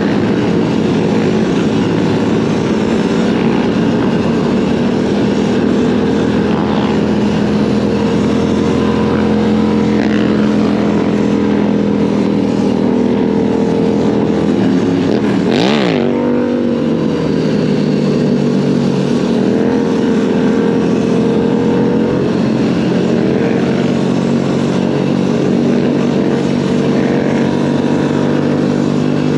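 Dirt bike engine running steadily under way on a trail ride, with an even pitch throughout. About halfway in the pitch drops sharply and climbs back, as when the throttle is rolled off and on again.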